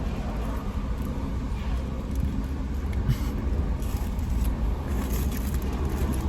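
Steady low rumble of a motor vehicle, with a few faint short noises over it.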